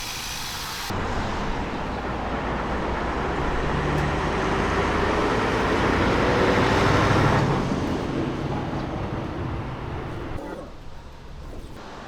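A motor vehicle going by, its engine and road noise swelling to a peak and then fading away.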